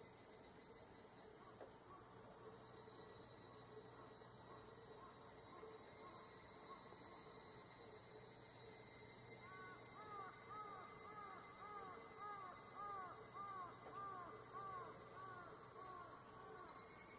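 A distant chorus of higurashi evening cicadas (Tanna japonensis) sounds as a steady high shrill, with a slow pulsing in it. From about ten seconds in, a bird joins with a run of short, arched calls, about three a second, for several seconds.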